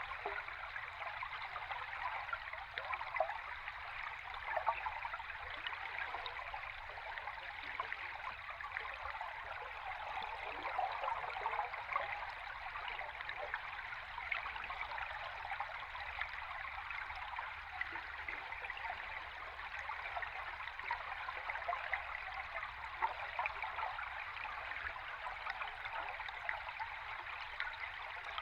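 River stream heard underwater: a steady rushing, bubbling wash of water with fine crackles running through it.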